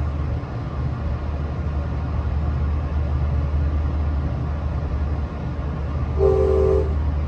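Steady low rumble of a moving passenger train heard from inside the car. About six seconds in, a brief tone of several pitches at once sounds for under a second, the loudest moment.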